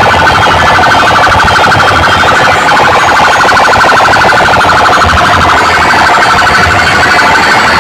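Loud electronic alarm-like warble, a rapidly pulsing tone held at a steady pitch, played through a large DJ sound system.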